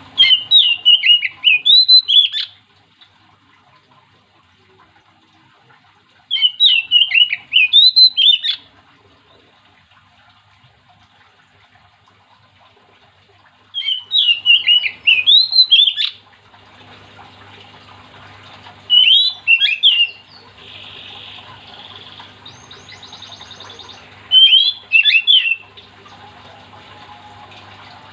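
Oriental magpie-robin singing loud phrases of fast, sweeping whistled notes, five phrases a few seconds apart, the last two shorter.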